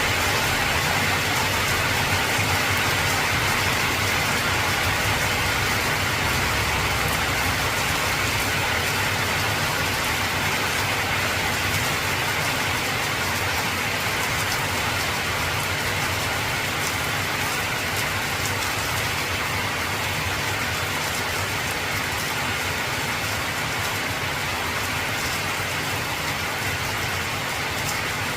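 Heavy rain drumming steadily on an old corrugated tin roof, a dense, even patter with a low rumble underneath that is strongest in the first several seconds.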